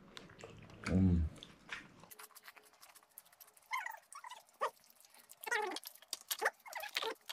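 Crisp pani puri shells crunching and being chewed, in a run of quick close crackles starting about two seconds in. Mixed in are a few short high-pitched squeaks or whines, with a brief low hum about a second in.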